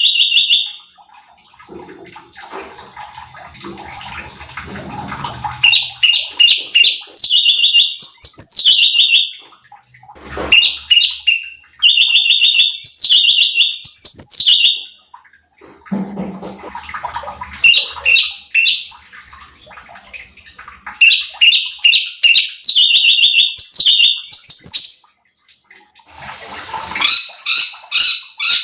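Sooty-headed bulbul (cucak cungkok) singing: bouts of quick, high chirping notes with falling sweeps, repeated every few seconds with short pauses between. Several stretches of hissing noise, the longest after the first bout, sit between the bouts.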